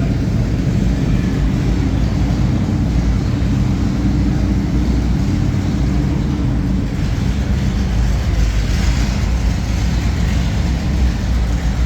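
Car engine running with a low, steady rumble, and a hiss that swells about seven seconds in and fades a few seconds later.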